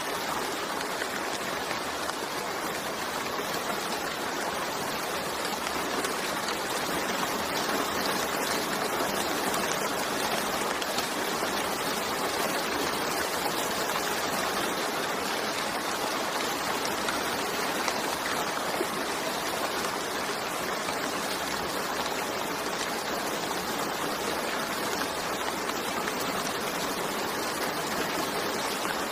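Steady rain falling, a dense, even hiss that holds at one level with no breaks.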